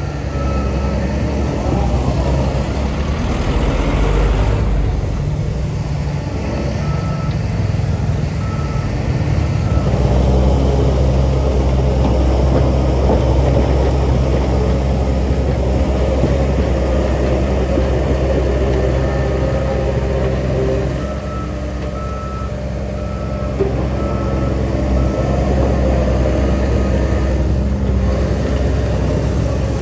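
Heavy diesel construction machinery running steadily under load, with a reversing alarm beeping in short runs about every three-quarters of a second, heard a few times as a machine backs up.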